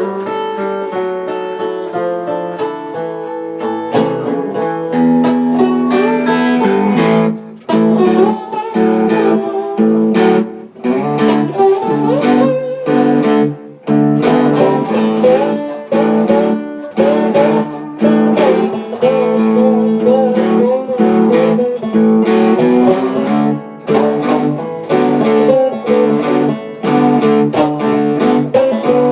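Acoustic guitar playing a blues instrumental break, picked notes and strummed chords, with no singing.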